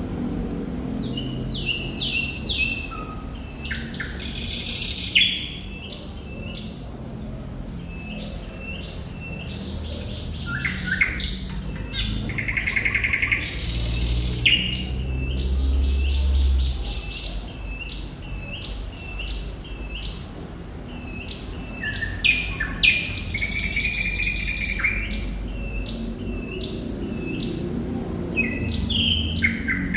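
Thrush nightingale in full song: phrases of rapid repeated notes, sharp clicks and rattling trills, broken by short pauses. A low rumble runs underneath.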